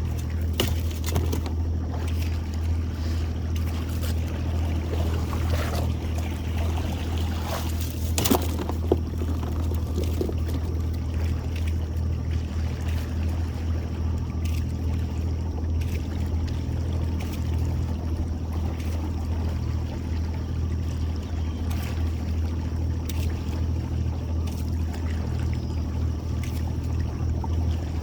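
Boat motor running steadily at low speed while a trotline is worked, with water trickling and splashing and a few sharp knocks, the loudest about eight seconds in.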